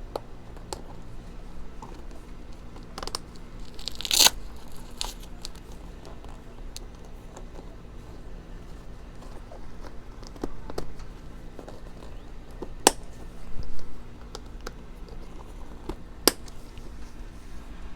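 New motocross boots being put on and fastened: scattered clicks and knocks from the buckles and stiff plastic shell, with a short ripping rustle about four seconds in and sharp snaps near the end.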